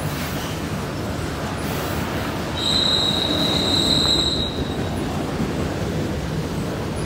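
Freight cars rolling past on jointed track with a steady rumble. About two and a half seconds in, a wheel flange squeals on the curve and turnouts, a high steady screech that lasts nearly two seconds.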